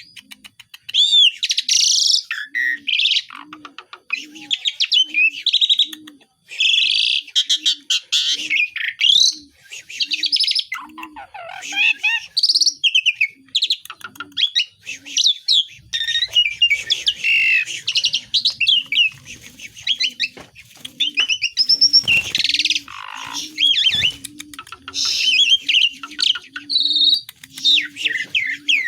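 Asian pied starling (jalak suren) singing continuously in varied phrases of whistles and harsh, scratchy chattering. A faint low pulse repeats steadily underneath.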